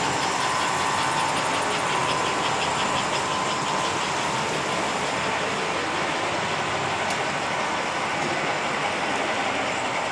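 American Flyer S-gauge model trains running on the layout track: a steady whirr of motors and wheels on rail, with a fast, even clicking in the first few seconds.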